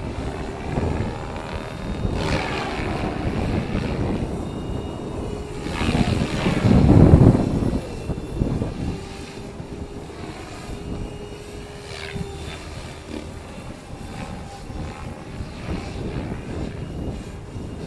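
Stretched MSHeli Protos RC helicopter with 470 mm blades in flight: its rotor and motor hum with a faint steady tone, buried under heavy wind buffeting on the microphone that surges loudest about halfway through.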